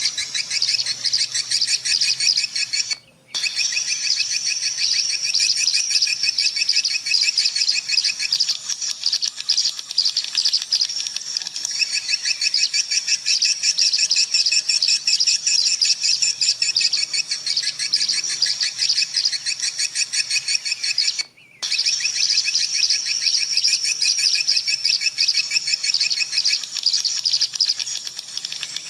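Swiftlets twittering: a dense, fast stream of high chirps that breaks off briefly twice.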